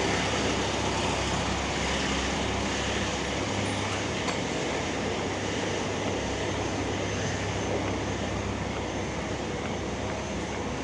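Steady low rumble of motor vehicles and road traffic, with a constant low hum and no sudden events.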